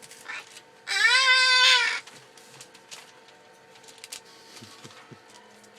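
A parrot gives one loud, drawn-out cat-like meow call about a second in, rising and then falling in pitch at its ends. Faint clicks and scuffs follow.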